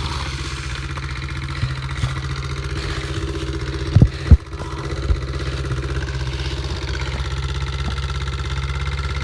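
Dirt bike engine idling steadily, with two sharp knocks close together about four seconds in.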